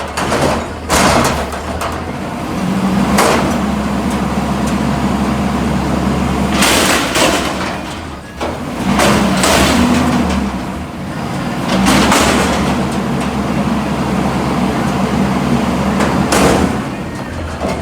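Garbage truck's diesel engine running steadily, with sudden loud bursts of hiss or clatter every few seconds.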